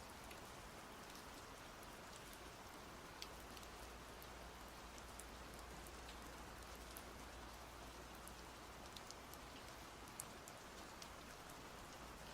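Steady rain falling, a soft even hiss with scattered faint drop ticks.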